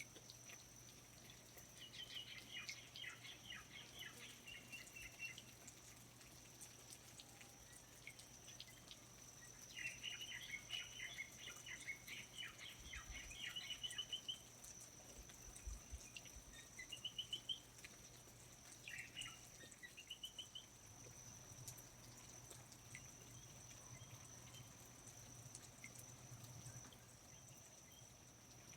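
A small songbird singing faint bursts of rapid twittering chirps, four phrases with pauses between them, the second the longest. A steady thin high tone runs underneath.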